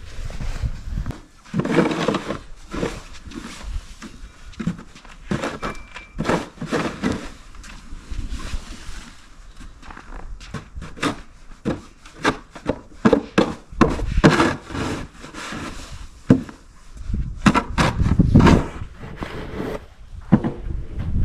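Irregular crunching and scraping strokes in snow, coming in clusters with short pauses, loudest about two seconds in and again around fourteen and eighteen seconds in.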